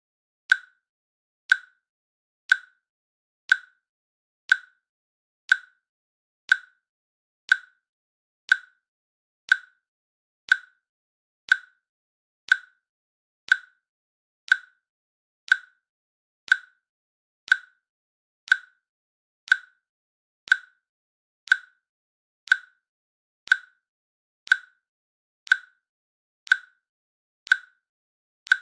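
A countdown timer's click sound, one short sharp click every second in a steady rhythm, with silence between clicks.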